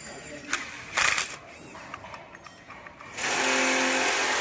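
A few clicks and a sharp knock of parts being handled during removal of the scooter's side covers. About three seconds in, a small electric motor starts running steadily with a humming whine.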